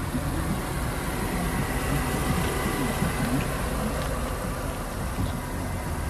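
BMW E36 M3 Evolution's 3.2-litre straight-six idling steadily.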